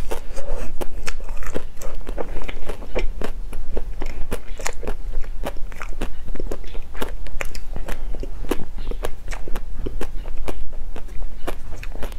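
A bite of ice-cream bar with a hard red coating being chewed close to a clip-on microphone: a run of sharp crunches and crackles, several a second.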